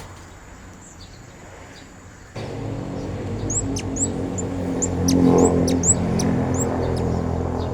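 Blue-crowned hanging parrot (serindit) giving a quick series of about ten short, thin, high chirps, each sweeping upward, a lure call. A steady low hum comes in abruptly about two seconds in and runs under the calls.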